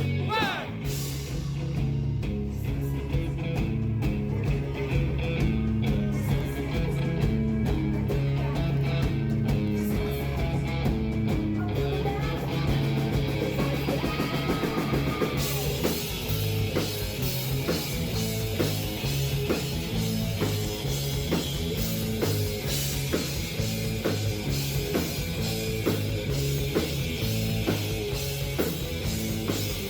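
Rock band playing live: electric guitar, bass and drum kit, in an audience recording with the vocals barely audible. About halfway through the cymbals come in stronger over a steady drum beat.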